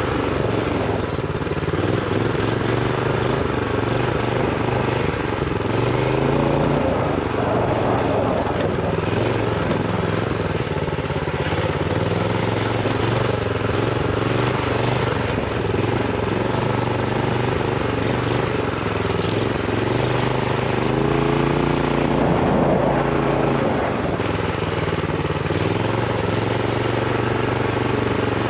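Honda GX390 single-cylinder engine on a minibike running under load while riding, its note rising and falling repeatedly as the throttle is opened and eased off. Its top revs are held down by a throttle stop screw.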